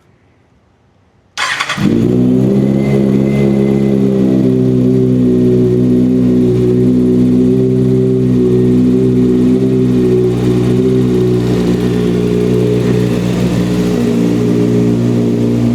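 2023 Kawasaki ZX-6R's inline-four engine starting about a second in, catching at once, then idling steadily from a cold start.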